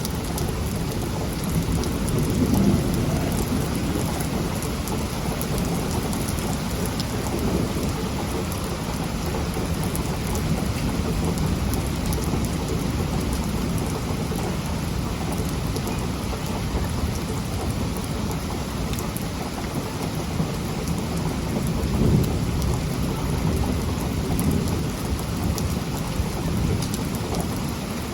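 Heavy rain falling steadily in a thunderstorm, with low rumbles of thunder swelling a couple of seconds in and again about two-thirds of the way through.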